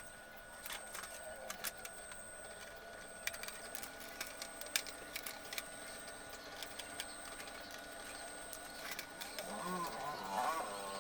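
Faint, irregular small clicks and taps over a faint steady high-pitched whine, with a faint wavering voice-like sound near the end.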